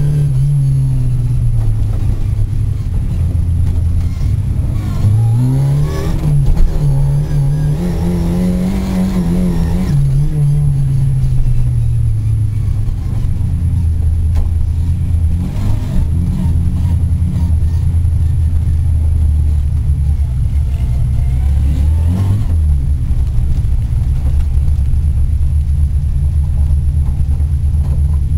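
Rally car's engine heard from inside the cabin, running loud on a dirt stage. Its revs rise and fall several times in the first half, then it settles to a steadier, lower note.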